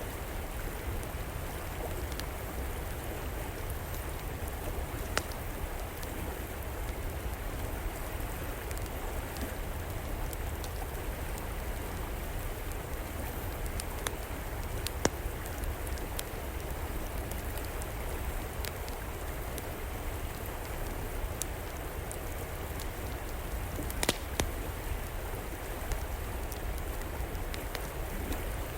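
Steady rush of flowing river water, with scattered sharp pops and crackles from a wood fire burning in an outdoor fireplace; a few louder pops stand out, two in quick succession near the end.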